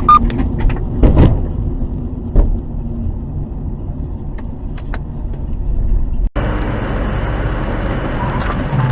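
Steady road and engine rumble of a moving vehicle, with a few sharp knocks in the first second and a half. About six seconds in the sound drops out for a moment and comes back as a steadier rumble with a low engine hum.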